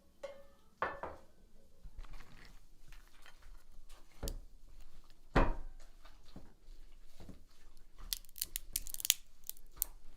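Scattered handling sounds of tearing, crunching and rustling, made up of separate clicks with a quick run of sharp crackles near the end.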